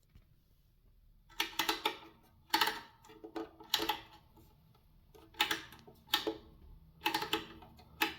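Metal clicking and clanking in short bursts about once a second, each with a brief ring, from the all-metal KDK fan being handled.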